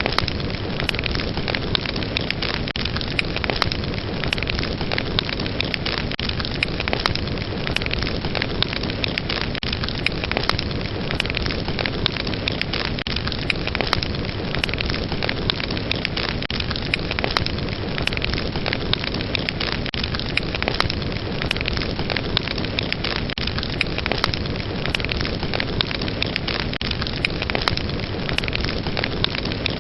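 Fire burning in a fireplace, crackling steadily: a continuous rush of flame noise dotted with many small, sharp pops and snaps.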